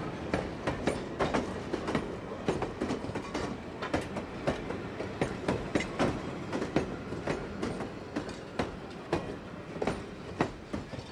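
Train rolling past, its wheels clacking over the rail joints in a quick, uneven run of sharp clicks over a steady rumble.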